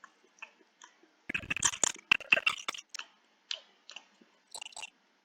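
Loud chewing and crunching close to a microphone, in irregular wet bursts, thickest between about one and three seconds in.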